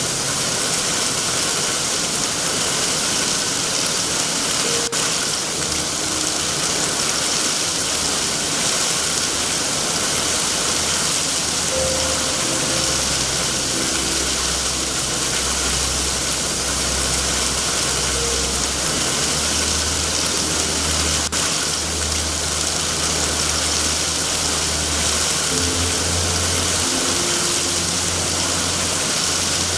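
Steady heavy rain hiss, with a low rumble that comes in about six seconds in and swells and fades. A couple of faint crackles from the fireplace are also heard.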